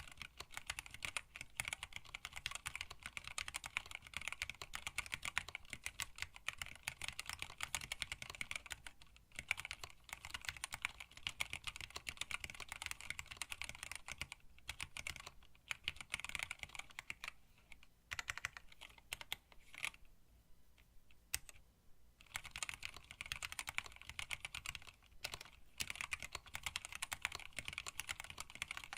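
Fast continuous typing on a hand-wired split mechanical keyboard with Tealios linear switches and PBT keycaps in an acrylic case: a dense run of key clacks with a few brief pauses, the longest about two-thirds of the way through.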